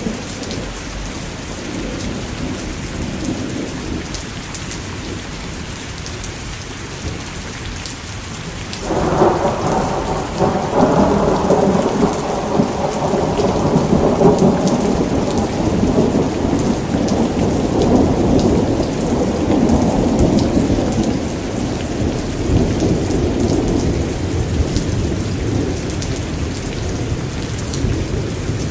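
Steady rain with a long roll of thunder. The thunder breaks suddenly about nine seconds in, rumbles for over ten seconds and slowly dies away. Scattered small crackles from a fireplace run through the mix.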